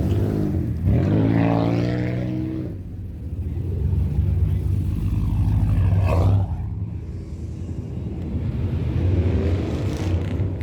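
Car engine revving over a steady rumble, its pitch climbing sharply about a second in and again around six seconds before dropping back.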